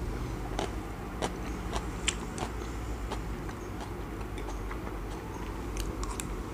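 A person chewing japchae, chewy glass noodles with beef and vegetables, with scattered wet mouth clicks a couple of times a second.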